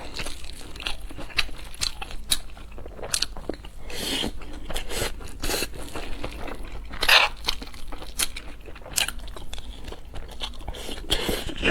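Close-miked eating: crunchy bites and chewing, a run of sharp crunches and mouth clicks.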